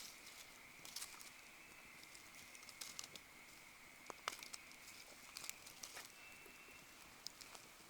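Wood fire crackling faintly: scattered sharp pops, the loudest about four seconds in, over a steady faint high-pitched hum.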